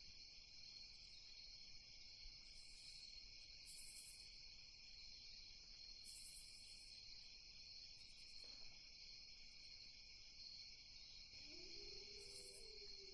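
Faint night ambience: a steady chorus of crickets, with a few short, higher insect buzzes over it. A faint wavering tone comes in near the end.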